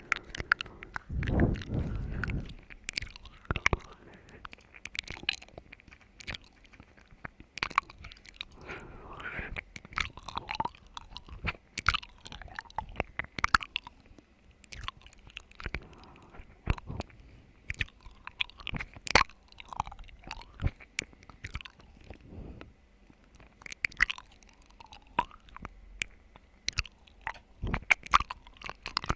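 Close-miked wet mouth sounds of chewing and crunching: many irregular sharp clicks and smacks, with a low muffled thump about a second and a half in.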